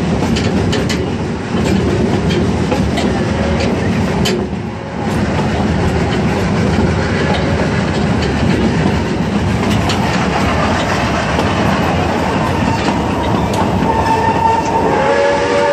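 An open passenger car of a steam-hauled narrow-gauge zoo train rolling along the track: a steady rumble of wheels with repeated clickety-clack clicks over the rail joints. A steady high tone joins in near the end as the train takes a curve.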